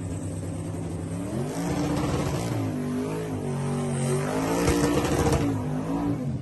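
Drag-racing car engine idling, then revving up from about a second in and rising and falling several times before dropping away suddenly at the end.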